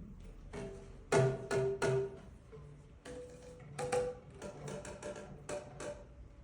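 Boomwhackers, tuned plastic tubes, struck in short phrases of hollow pitched hits at several different pitches. The loudest is a quick run of three strikes about a second in.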